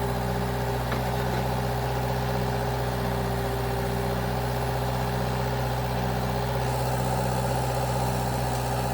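Engine running at a steady idle, with no change in speed.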